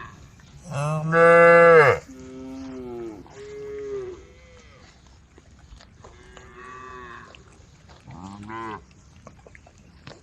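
Cows in a herd mooing, about five long moos one after another at different pitches. The loudest and longest comes about a second in.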